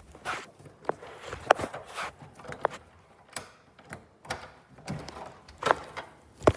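About ten irregular knocks and clicks of a plush toy and hand being handled against a door and its doorknob. The loudest come about a second and a half in and near the end.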